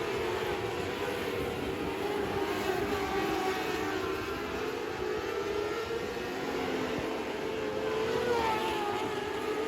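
Race car engines running, several steady pitches drifting up and down together.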